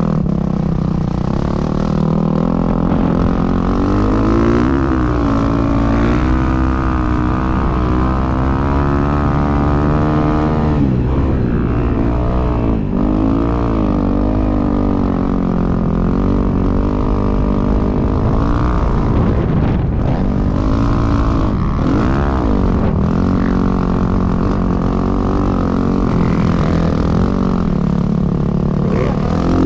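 Dirt bike engine being ridden hard, its pitch repeatedly rising and falling as the throttle is opened and closed.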